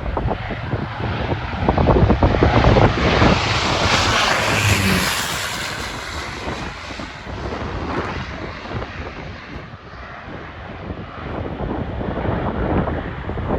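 A fixed-wing aircraft's engines passing on its landing, swelling to their loudest a few seconds in with a rushing hiss, then fading away. Gusty wind buffets the microphone throughout.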